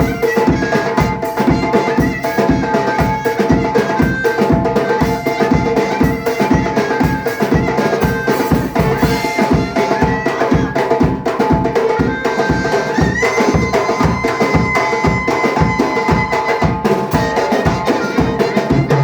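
Tajik folk band playing: fast, even drumming under held melody notes, one of which slides up about thirteen seconds in.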